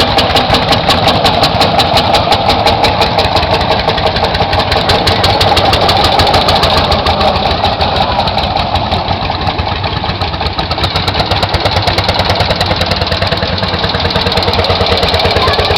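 Tractor engine running steadily at idle, its firing beats evenly spaced.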